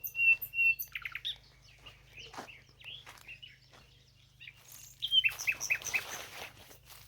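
Small birds chirping and calling. The first second is a quick series of identical high notes, about three a second; then come scattered short chirps, with a busier flurry of chirps about five to six seconds in.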